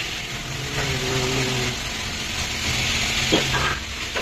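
A motor running steadily, a low hum with a hiss over it, with a brief rising whine about three seconds in.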